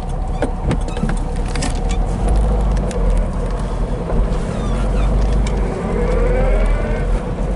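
1965 Porsche 356C's air-cooled flat-four engine running at low speed as the car backs up in reverse. A few sharp clicks come in the first two seconds, and a rising whine comes near the end.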